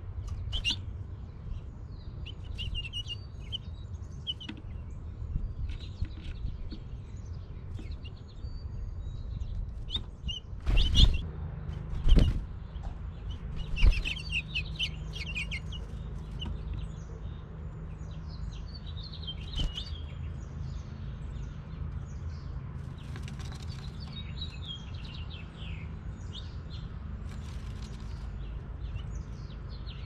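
Small birds chirping in short, repeated high notes, with three loud sudden bumps a third of the way in, over a steady low rumble.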